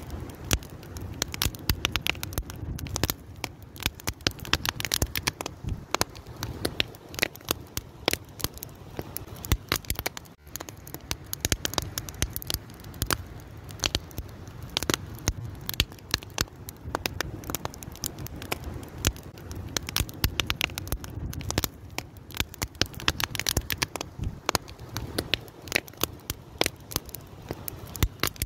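Wood fire burning, with dense irregular crackles and sharp pops over a low, steady rumble of the flames.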